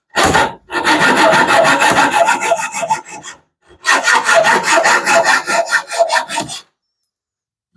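A hand tool rasping back and forth in quick, even strokes, trimming a protruding stub smooth. The strokes come in a short run at the start, then two long runs with a brief pause between them, and stop about two thirds of the way through.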